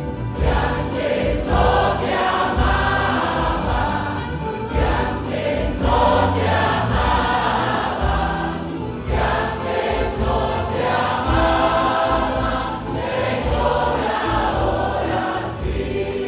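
Choir singing a hymn, recorded live in the room, over a low instrumental accompaniment. The phrases pause briefly about four and nine seconds in.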